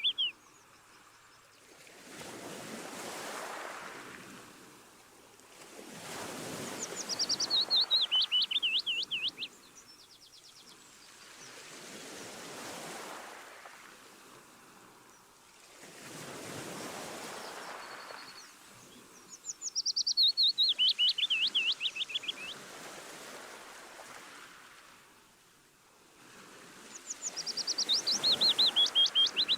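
Gentle sea waves washing in and out, a soft swell every four to five seconds. Three times a songbird sings a fast trill that falls in pitch, and the trills are louder than the waves.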